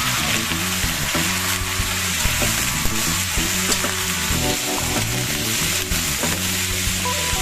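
Chicken livers and onions sizzling steadily in a hot wok, stirred and turned with a metal spatula that scrapes against the pan now and then.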